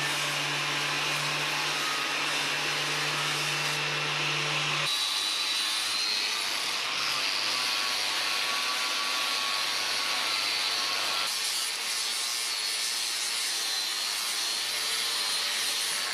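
Orbital sander running on old oak beams: a steady motor whir with scratchy sanding noise. Its tone shifts abruptly about five seconds in and again about eleven seconds in.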